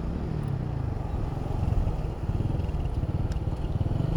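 Road traffic: vehicle engines running close by, a steady low rumble with a fast pulsing.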